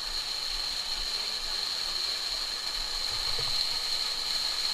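Rushing stream water, a steady even wash, with a steady high-pitched whine running above it.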